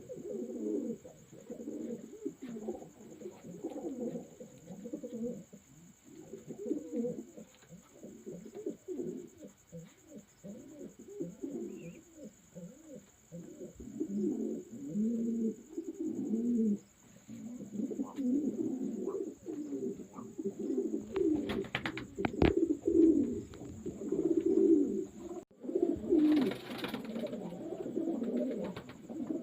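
Several racing pigeons cooing, with low rolling coos overlapping almost continuously. A few sharp clicks come about two-thirds of the way in, and a short rustling burst comes near the end.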